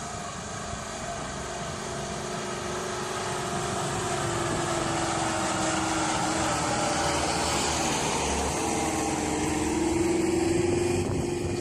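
Heavy truck engine running steadily, its note drifting slowly down and back up.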